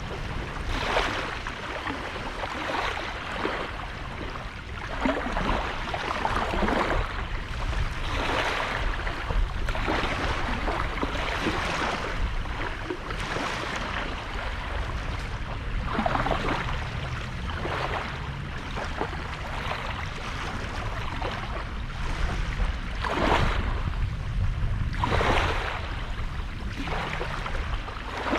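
Small sea waves breaking and washing up the beach, one wash every few seconds, over a steady low rumble.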